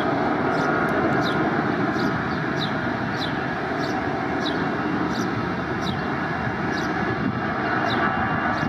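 Steady jet aircraft engine noise, with a short, falling high chirp repeating about every two-thirds of a second.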